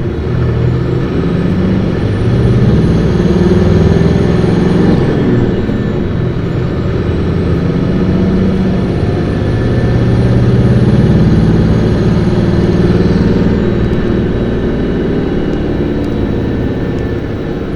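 Isuzu Erga city bus's diesel engine revved hard under acceleration. Its whine rises in pitch twice and drops back at each gear change, about five seconds in and again near fourteen seconds, before it settles into a steadier run.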